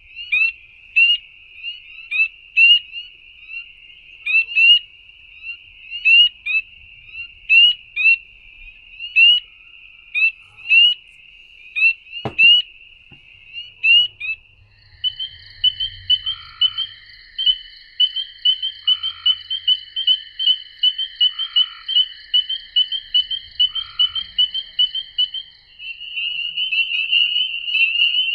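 Recorded chorus of frogs calling: many short, rising, high peeps repeated over a continuous background chorus. About halfway through, the mix of calls changes to a denser chorus with rapid repeated notes and a steady trill. A single click comes shortly before the change.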